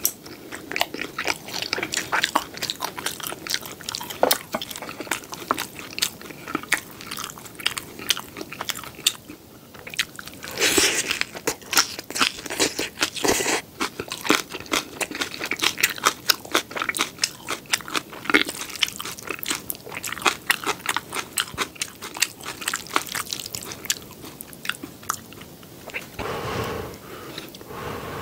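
Close-miked chewing of crisp battered fried pork (tangsuyuk): many small crunches and crackles in quick succession. A couple of longer, louder noisy stretches come about eleven seconds in and near the end.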